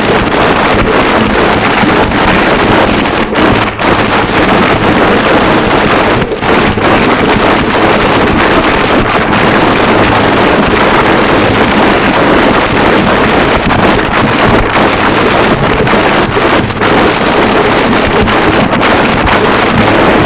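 Harsh noise wall: a loud, unbroken wall of dense distorted static, with only brief flickering dips.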